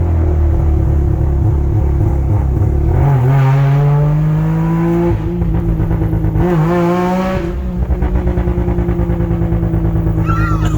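Mazda RX-8's twin-rotor rotary engine pulling under acceleration. Its pitch climbs from about three seconds in, dips briefly about halfway, climbs again, then settles to a steady cruise near the end.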